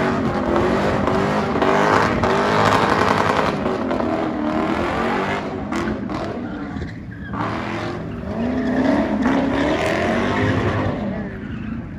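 Car engine revving hard up and down while its tires squeal and skid, as in a burnout or drift. The revs drop briefly about seven seconds in, then climb again.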